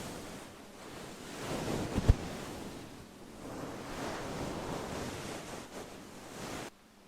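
Furry microphone windscreen being rubbed and stroked close to the microphone, a swishing sound that swells and fades in slow sweeps, with a sharp thump about two seconds in; the sound cuts off suddenly near the end.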